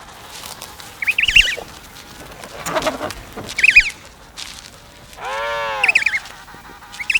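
Emperor penguins calling, several loud warbling trumpet calls a second or two apart, one of them longer and lower near the end. These are the contact calls by which a returning mate and her partner find and recognise each other.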